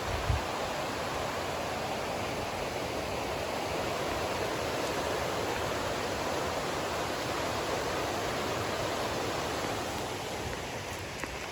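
Mountain stream water rushing steadily. A brief low thump comes just after the start.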